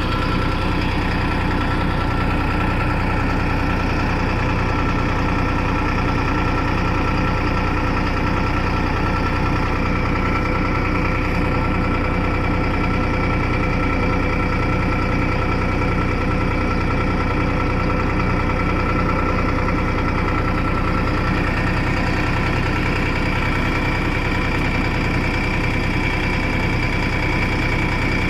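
New Holland 3230 NX tractor's diesel engine running at a steady speed while driving a round straw baler, with constant whining tones over the low engine note.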